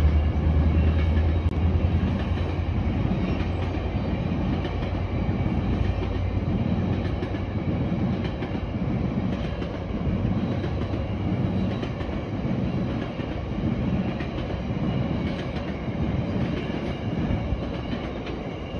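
A long GO Transit bilevel commuter train passing close by. The wheels clack over the rail joints in a steady rhythm, and a deep rumble at the start fades within the first couple of seconds.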